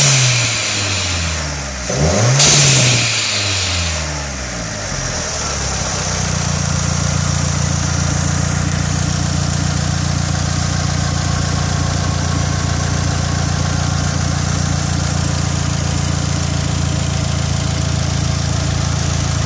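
Mitsubishi Outlander Turbo's turbocharged 2.0-litre four-cylinder running through a 3-inch custom exhaust with a MagnaFlow high-flow chamber muffler. It is blipped twice in the first few seconds, the second blip with a hissing whoosh, then settles to a steady idle.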